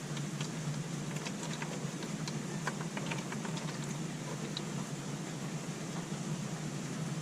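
Last of the engine oil dripping into a drain pan as the flow dies away, heard as scattered small drips over a steady low hum. The drips thin out about four seconds in.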